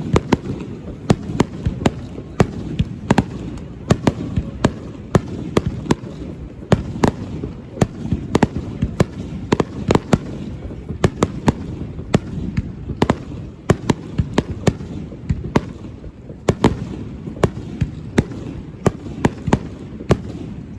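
Aerial fireworks going off in a rapid barrage: sharp bangs several times a second over a continuous rumble of overlapping explosions.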